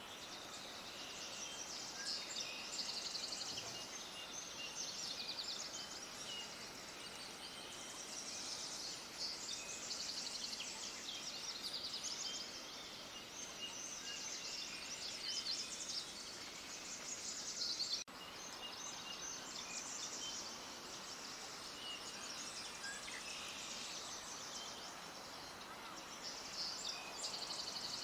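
Many small birds chirping together in a dense, continuous chorus of high, rapid notes. The sound drops out for an instant about eighteen seconds in.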